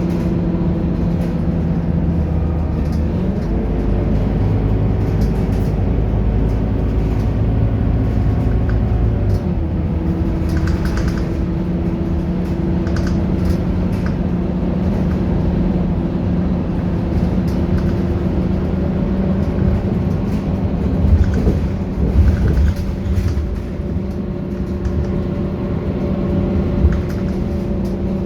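Scania K230UB bus's five-cylinder diesel engine running as the bus drives. The engine note rises under load about three seconds in and eases off about ten seconds in, with a few short knocks and rattles later on.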